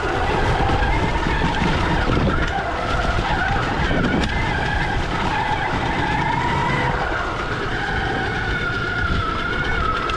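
Stark Varg EX electric dirt bike riding off-road: the electric motor's whine rises and falls with the throttle over a constant rough rumble of tyres on the trail.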